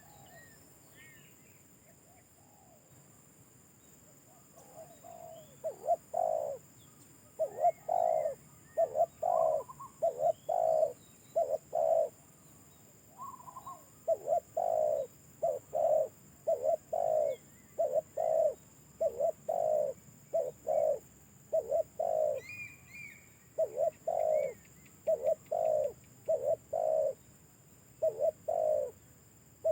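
Spotted dove (tekukur) cooing: phrases of short, deep, repeated coos with brief pauses between them, starting about five seconds in. Faint chirps of small birds sound in the background.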